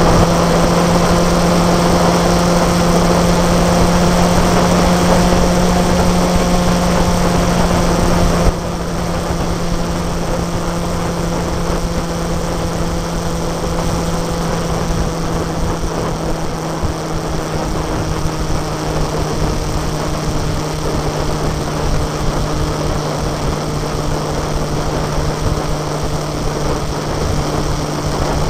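Motorcycle engine running steadily at cruising speed, with wind and road noise on the mounted camera's microphone. About eight seconds in the sound drops suddenly in level and the engine note settles slightly lower, then runs on evenly.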